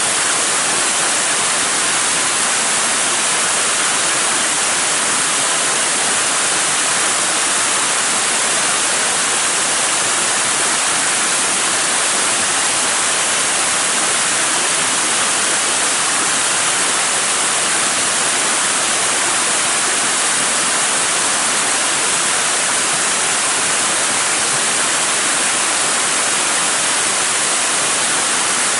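A waterfall's steady rush of falling water: an even, unbroken hiss that does not change.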